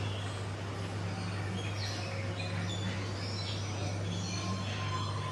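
Several birds chirping, with short scattered calls over a steady low hum.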